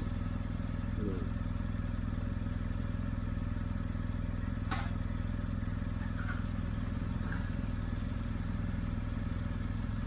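BMW R1250 GS Adventure's boxer-twin engine running at a steady speed, with a single sharp click about halfway through.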